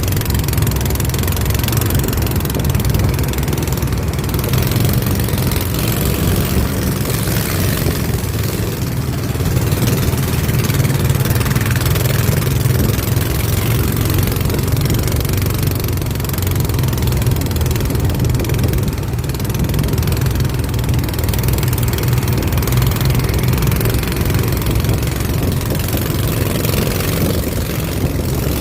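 Boat engine running steadily at an even speed, a constant low drone with a hiss over it.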